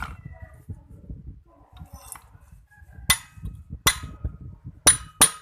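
Metal tools or parts clinking and knocking during reassembly of a two-stroke brush cutter: four sharp, ringing strikes from about three seconds in, the last two close together, over low handling rustle.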